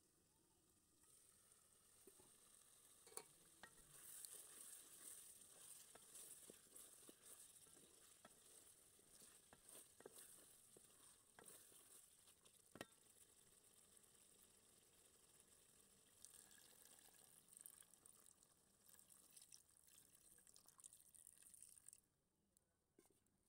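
Faint sizzling of chicken pieces cooking in gravy in a pot, with a few sharp clicks. The sizzle drops away near the end.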